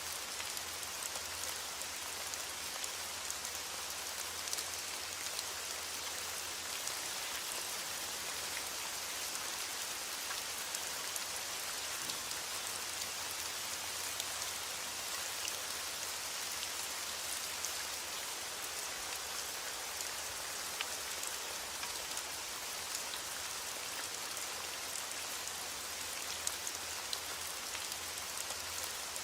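Steady rain falling, an even hiss dotted with the light ticks of individual drops.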